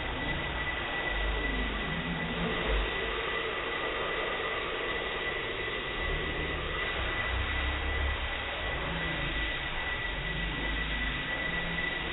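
Metalworking machine running steadily, a constant high whine over a noisy hum and an uneven low rumble.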